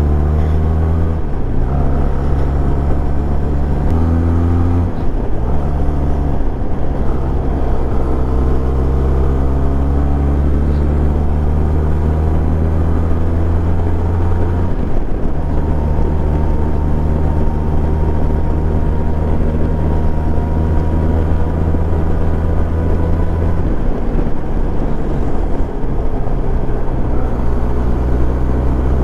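Benelli TRK 502 parallel-twin engine running steadily under way. The engine note drops and picks up again several times as the rider changes throttle or gear.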